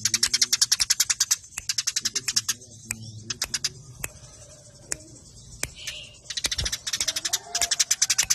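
Eurasian tree sparrows ('burung gereja') chattering in fighting mode: fast, tight runs of sharp chirps at about ten a second, broken by short pauses and picking up again densely near the end.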